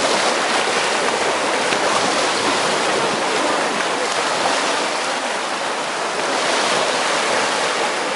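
Ocean surf washing onto the beach: a steady hiss of breaking waves that swells gently a couple of times.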